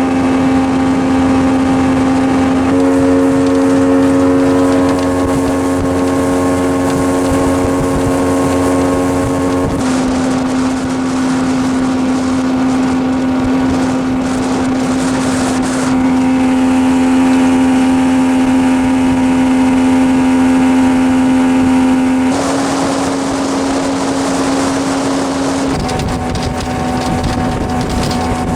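Jet boat engine running steadily at cruising speed, a loud constant drone whose pitch and tone shift abruptly a few times.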